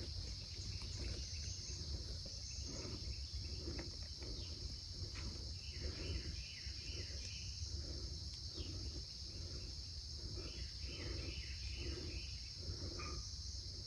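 Steady, high, even chorus of insects. Twice, a bird gives a short series of chirps, and soft low pulses repeat about every three-quarters of a second through much of the middle.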